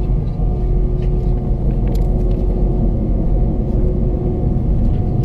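Airbus A319 cabin noise: the jet engines running with a steady hum over a low rumble, with a few faint light rattles.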